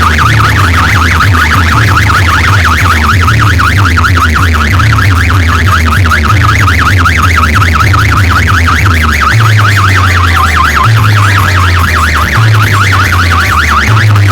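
Very loud DJ sound system playing a fast, siren-like warbling tone over a heavy, pulsing bass.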